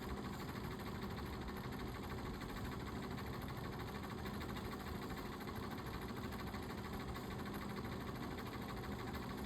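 Dirt bike engine running steadily at an even pitch, with no revving or change in speed.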